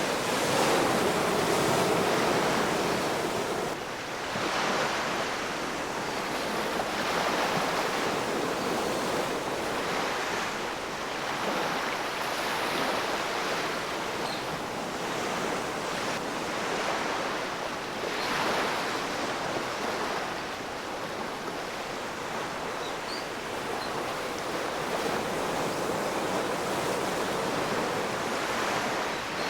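Ocean waves breaking and washing on the shore, a continuous rushing surf that swells every few seconds as each wave comes in.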